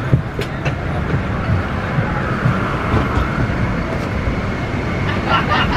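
Boeing 757-300 cabin noise after landing: a steady low rumble with a faint whine that swells and fades, a few sharp clicks, and voices starting near the end.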